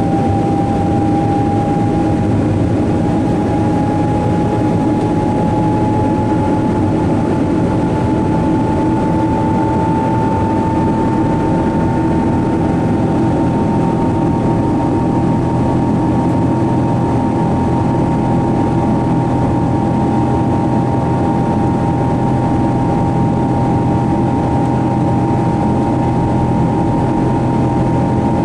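Boeing 777-200 engines running at high power, heard from inside the cabin as a steady loud rumble. An engine whine rises slightly in pitch over the first ten seconds or so, then holds steady.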